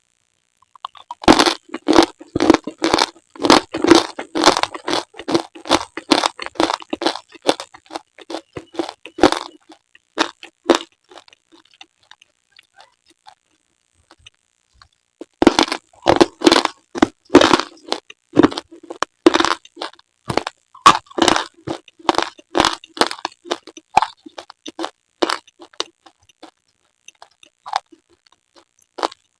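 Pieces of slate being bitten and chewed close to the microphone: quick, sharp crunches, about four a second, in two long runs with a pause between them, then a few isolated crunches near the end.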